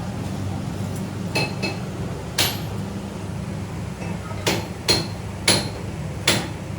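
Hammer blows on metal: about seven sharp, irregularly spaced strikes that ring briefly, heard over a steady low hum.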